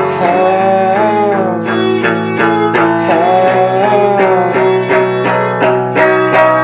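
A live band playing an instrumental passage: picked guitar notes at about four a second under a held melody line that bends in pitch.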